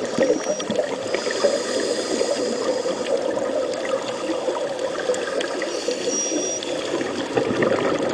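Water noise heard through an underwater microphone: a steady gurgling hiss with many scattered small crackling clicks.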